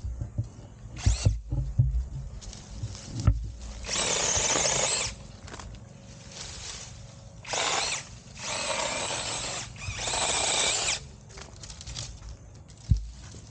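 Battery-powered mini chainsaw running in four short bursts of about a second each, its chain whirring as it cuts small branches. A few knocks and handling thumps come before the first burst.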